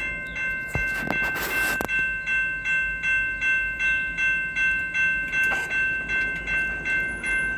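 Railroad grade-crossing bell ringing in a steady, even rhythm of about three strikes a second, warning of an approaching train. A brief rush of noise passes about a second in.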